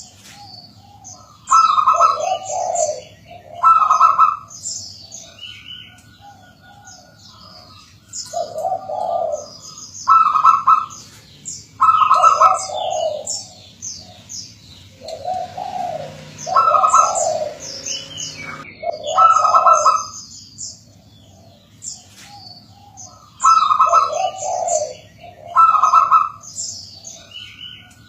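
Zebra doves (perkutut) cooing in repeated phrases of short staccato coos, the phrases coming in clusters with quiet gaps of a few seconds between, while small birds chirp higher and fainter in the background.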